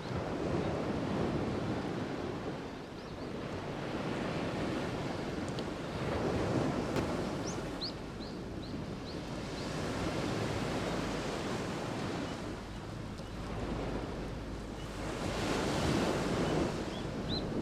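Surf at the water's edge: waves breaking and washing up the shore in a steady rush that swells and eases every few seconds.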